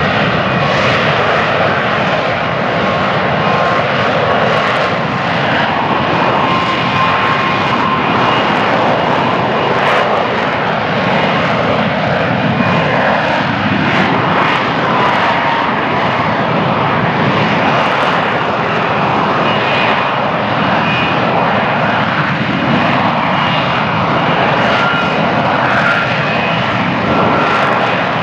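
F-35B Lightning II's jet engine and lift fan running steadily in a STOVL hover: a loud, even jet noise with faint whining tones that drift slightly in pitch.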